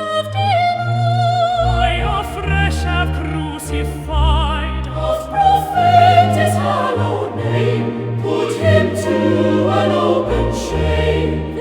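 Choral hymn singing with vibrato over an orchestral accompaniment with strong bass notes.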